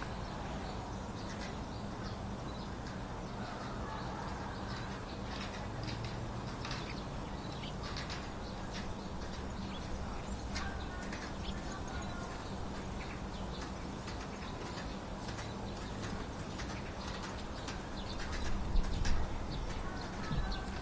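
Small woodland birds giving short, scattered chirps over a steady low hum, with a brief louder low rustle near the end.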